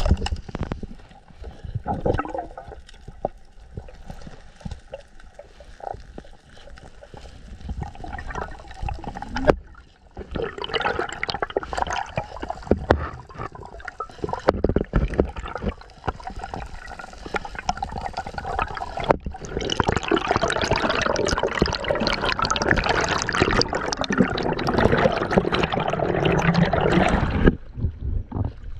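Sea water sloshing, rushing and bubbling around a camera in the water as a spearfisherman swims and dives. It comes in stretches broken by sudden cuts, and is loudest and densest near the end.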